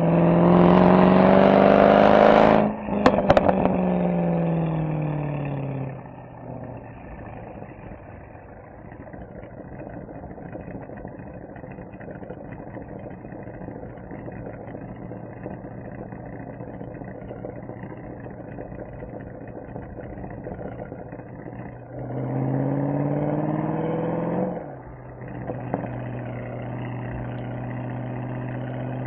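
Mercedes-AMG SL63's V8 exhaust climbing in pitch under acceleration, then a few sharp pops as the throttle lifts and the pitch falls away. It settles to a quieter, steady cruise, pulls up in pitch again for about two seconds near the end, drops off with another pop, and runs steadily.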